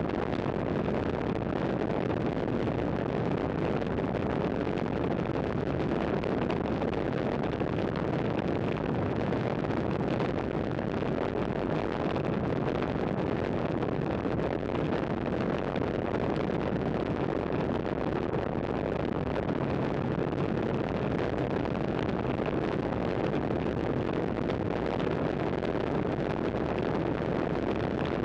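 Steady wind rush on the microphone of a camera carried on a moving road bicycle, mixed with tyre and road noise.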